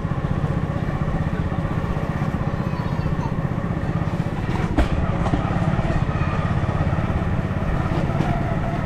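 A motor vehicle's engine running steadily close by, with a fast low pulsing throughout. There is one sharp click about five seconds in.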